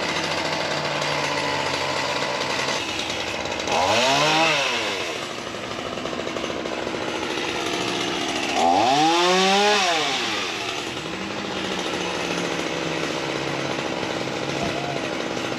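Ryobi 37cc two-stroke gas chainsaw running, idling steadily and revved up twice, each time its pitch climbing and then dropping back to idle.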